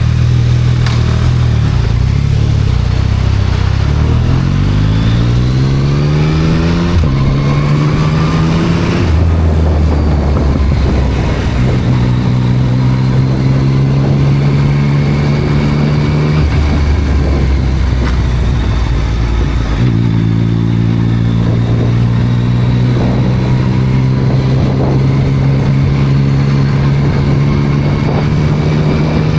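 A 2024 Yamaha MT-09 SP's inline-three engine, through a Spark triple-exit full exhaust, running under way. It climbs in pitch about four seconds in and drops sharply near seven seconds at a gear change. It then holds steady revs, with several steps up and down in pitch.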